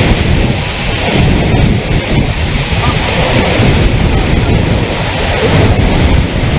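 Floodwater rushing, a loud steady noise, with wind buffeting the microphone.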